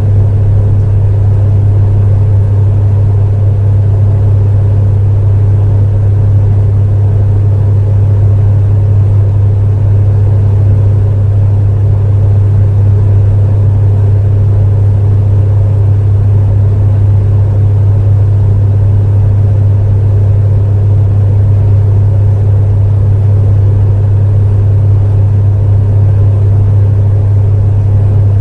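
Space heater running steadily: a loud, unchanging low hum with an even rush of fan noise above it.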